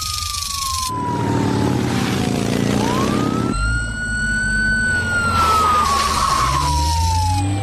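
Off-road vehicle engines revving as they struggle over soft desert sand, the pitch sliding down, rising again and falling away.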